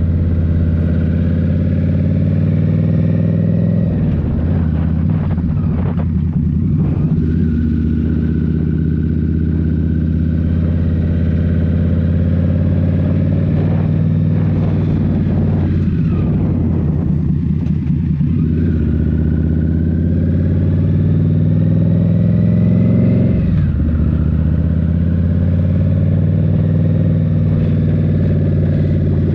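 Indian Scout Rogue's V-twin engine running through a Rinehart slip-on exhaust while riding, heard from on the bike. Its pitch wavers and breaks a few times, climbs steadily as the bike accelerates, then drops sharply about three-quarters of the way through.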